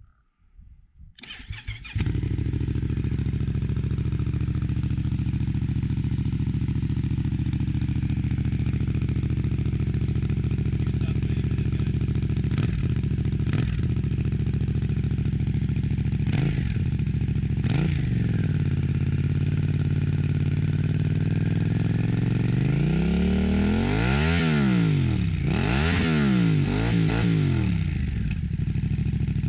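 Yamaha XSR700's 689 cc parallel-twin engine through an SC Project exhaust, started up: brief cranking, then it catches about two seconds in and idles steadily. Two quick throttle blips follow midway, and near the end a series of higher revs rising and falling.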